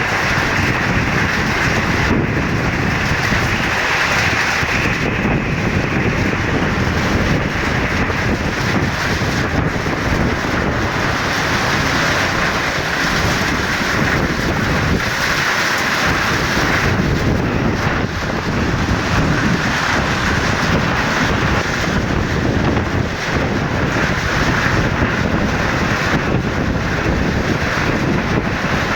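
Rainstorm: steady rain falling with strong wind buffeting the microphone.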